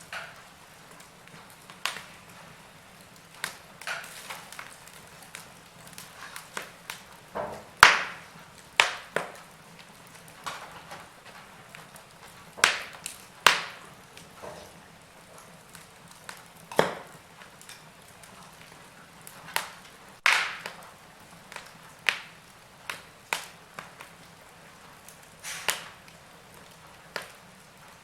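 Wood fire crackling in a fireplace: irregular sharp pops and snaps over a faint steady hiss, with the loudest cracks about eight and thirteen seconds in.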